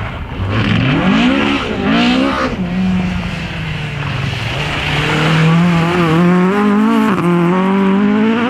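Rally car engine revving hard, its pitch climbing and dropping sharply several times over the first couple of seconds with quick gear changes, then held at high revs, fairly steady for the rest.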